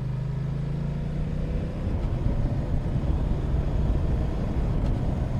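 Motorcycle engine running at a steady cruise, a low even hum, with wind rumble on the microphone growing heavier after about two seconds.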